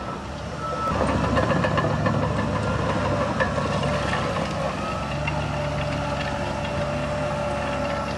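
Heavy diesel earthmoving machinery working. A reversing beep stops about a second in, then the engine noise rises with loud clattering, settling to a steadier drone near the middle.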